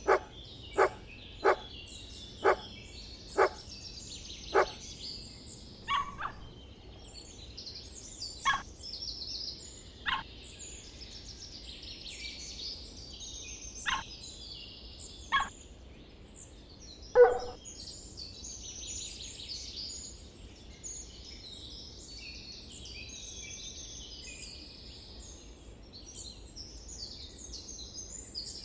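A dog barking in short single barks, about a dozen, quickly at first and then more spaced out, the loudest one last, stopping after about seventeen seconds. Many birds chirp and twitter throughout.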